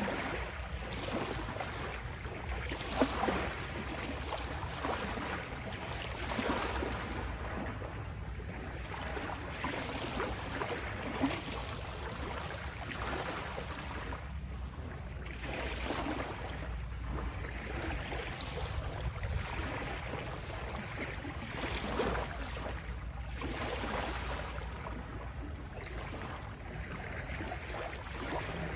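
Small sea waves lapping and rippling at the shore: a continuous wash of water that swells and fades every few seconds, over a steady low rumble.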